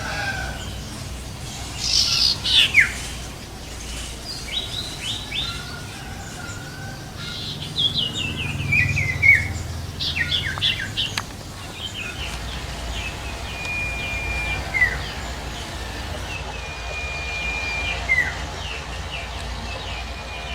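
Male sirtu bird singing vigorously in the wild, the song a male gives to attract a female: runs of quick chirps and sharply falling whistled notes, then from about halfway several long, level whistles that end in a quick downward slur.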